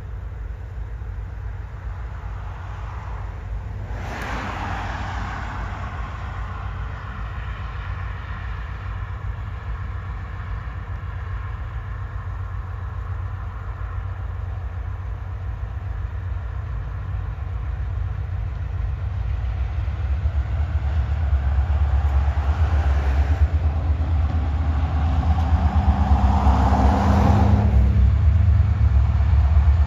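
Diesel freight locomotive of the Keokuk Junction Railway: a low engine rumble that grows steadily louder as the train approaches. Its horn sounds about four seconds in and fades away, then sounds again, louder, near the end.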